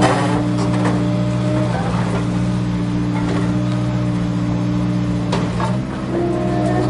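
Remote-control toy excavator's small electric motors and plastic gearboxes whirring steadily, with a few clicks. The pitch shifts slightly about two seconds in and again near the end.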